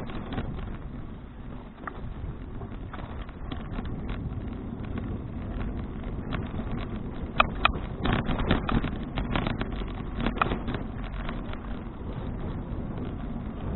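Riding noise from a moving bicycle filmed on an action camera: wind buffeting the microphone over a steady low rumble of tyres on the road. Scattered clicks and rattles run through it, with a few sharper ones about halfway through.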